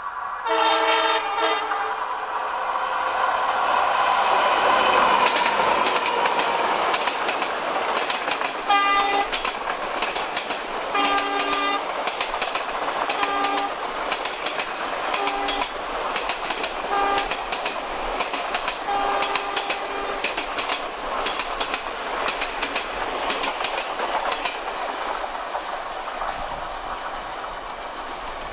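An Indian Railways WDP4 (EMD GT46PAC) diesel-electric locomotive sounds its horn as it approaches, then its 16-cylinder two-stroke EMD engine passes at speed. The express coaches follow with a steady clatter of wheels over rail joints, broken by a run of short horn toots, and the clatter fades near the end as the train draws away.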